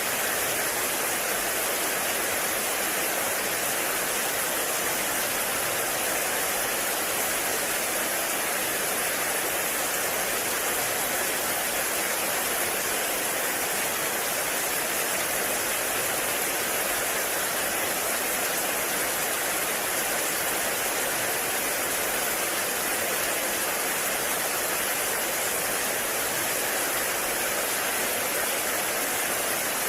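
Heavy rain falling on a forest: a dense, steady wash of noise with no single drops, thunder or other events standing out.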